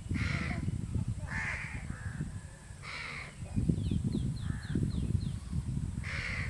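A crow cawing: about four harsh caws spread through the stretch, with a small bird giving a quick run of short, falling high chirps in the middle.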